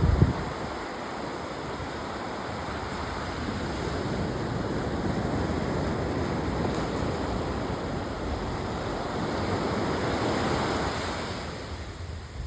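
Ocean surf washing onto a beach: a steady rush of breaking waves that swells twice and eases near the end, with a brief buffet of wind on the microphone at the start.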